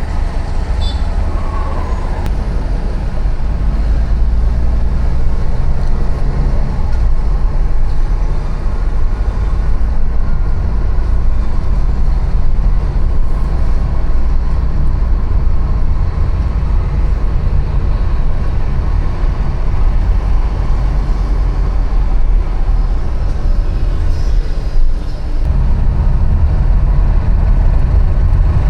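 Steady city street traffic noise with a heavy low rumble, heard while riding a bicycle through the streets. The level dips briefly near the end.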